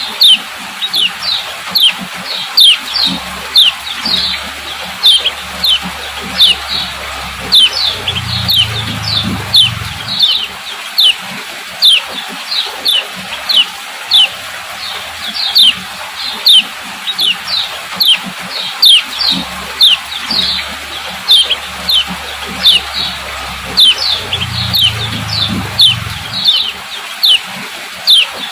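Female kecial kuning giving its 'ciak ciak' call: short, sharp, downward-sweeping chirps, about two a second, used as a lure to get male kecial birds singing. A faint low rumble comes and goes twice in the background.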